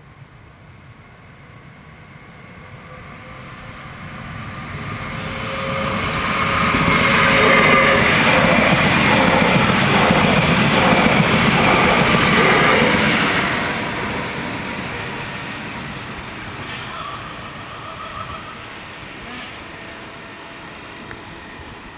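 A Stadler FLIRT electric multiple unit passing over a level crossing, wheels running on the rails. It swells over several seconds, is loudest for about six seconds, then fades away.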